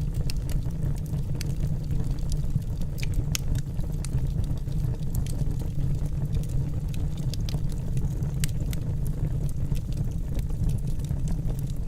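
Wood fire burning in a fireplace: a steady low rumble of the flames with frequent sharp crackles and pops from the burning logs, scattered irregularly.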